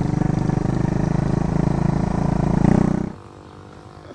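Motorbike engine running close by, swelling briefly, then cutting off suddenly about three seconds in, leaving a much quieter background.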